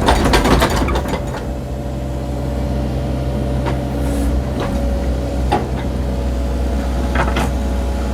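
Cat mini excavator's diesel engine running steadily at working speed, with a thin steady whine above the low hum. A few short clicks and knocks are scattered through it as the machine grades dirt.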